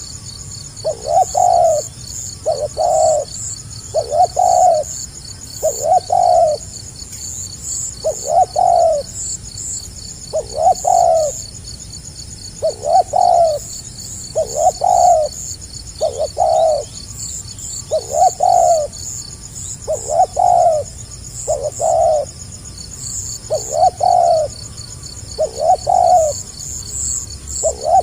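Spotted dove (tekukur) cooing over and over, short low coo notes about every one to two seconds, some in close pairs, in the stuttering 'gagap' style. A steady high-pitched chirring runs underneath.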